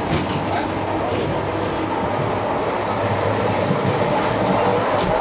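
Passenger train running at speed, heard from inside a carriage vestibule: a steady rumble of wheels and running gear on the rails, with a few sharp clicks in the first two seconds and another near the end.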